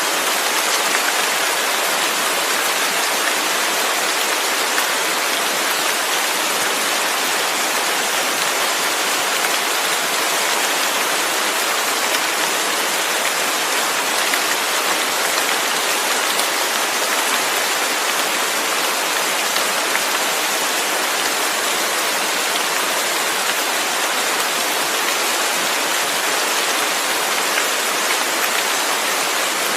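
Steady rain, an even hiss of many drops falling, with no thunder or breaks.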